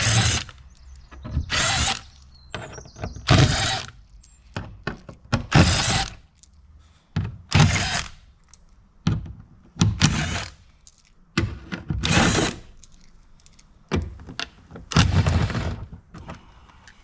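Cordless drill-driver run in short bursts, about eight pulses roughly two seconds apart, with small clicks between them, driving in the door's window runner screw.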